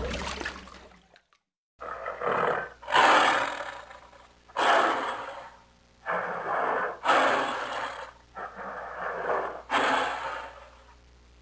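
A large animal calling: a series of about eight loud, rough calls, roughly one a second, starting about two seconds in after the fading tail of another sound.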